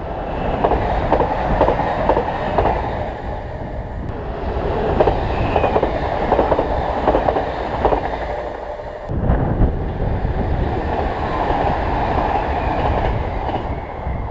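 Passing train, its wheels clattering over the rails. The sound breaks off and picks up again sharply about nine seconds in.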